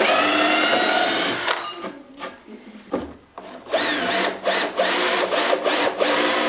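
Electric drill-driver motor whining: a steady run that winds down, a short pause, then several quick trigger bursts with the pitch rising and falling, and a long steady run near the end.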